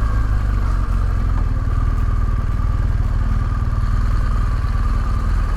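Motorcycle engine running steadily and low-pitched, with a faint steady whine above it.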